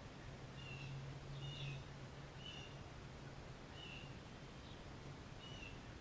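About five short, high bird chirps, roughly a second apart, over a steady low hum that fades out about five seconds in.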